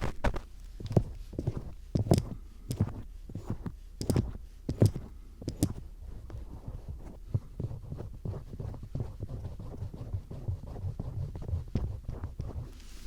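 A star-tip screwdriver scraping and tapping at an ear microphone for ASMR ear-picking, close up: irregular crackly scrapes and knocks with muffled low thumps. The strokes are sharper and louder in the first half, then turn into softer, quicker scratching.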